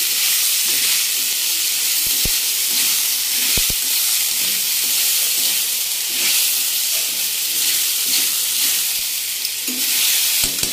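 Soaked sago pearls (sabudana) frying in oil in a metal kadhai, with a steady sizzle as a metal spoon stirs them around the pan. There are two sharp knocks a few seconds in and a few more near the end.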